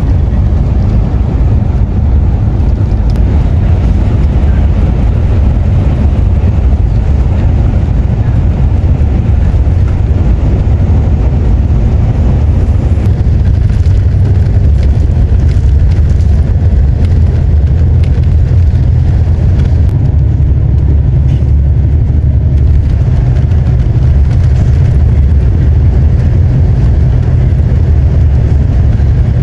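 Steady, loud low rumble of a moving vehicle, unbroken throughout.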